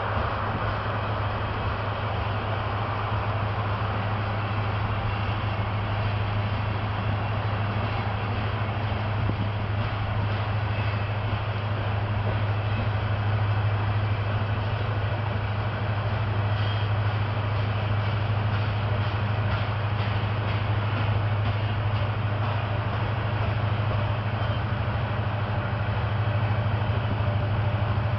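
Loaded grain train's covered hopper cars rolling past on an upgrade: a steady rumble of steel wheels on rail with a constant low hum underneath, growing a little louder over the second half.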